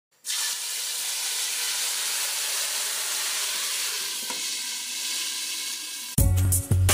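Steady sizzle of food frying in a pan, an even hiss that starts a moment in and eases off slightly. About six seconds in, music with a heavy bass beat cuts in, louder than the sizzle.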